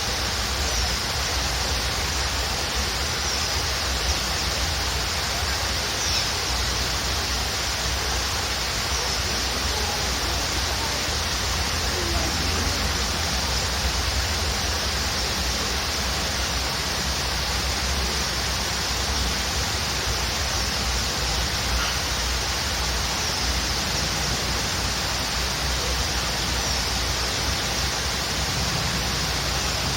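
Waterfall rushing with a steady, even roar of falling water, and a few faint, short bird chirps here and there above it.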